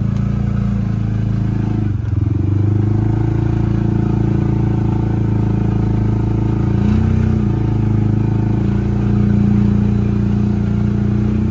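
Kubota L3560 tractor's diesel engine running steadily under way, with a brief dip about two seconds in.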